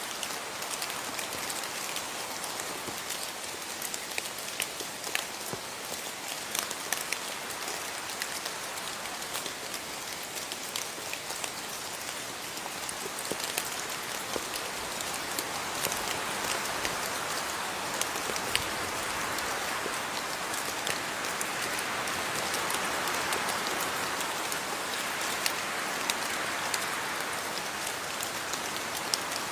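Steady rain falling, with many individual drops ticking sharply on a surface; the hiss of the rain swells a little about halfway through.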